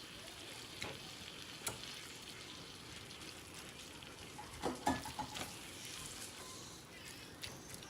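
Seasoned ground beef with melted cheese and salsa sizzling steadily in a pan as it is stirred. A spoon knocks and scrapes against the pan a few times, loudest about five seconds in.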